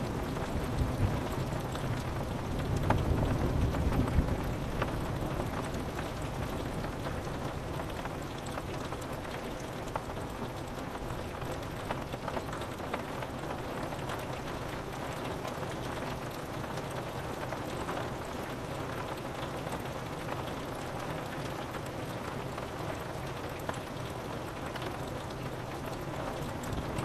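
Steady rain pattering on a window, with a low rumble of thunder dying away over the first few seconds.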